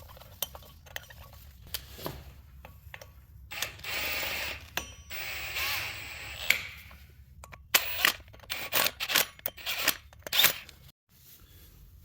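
Metal hand tools and sockets clinking, knocking and scraping, with a dense run of sharp metallic clicks near the end.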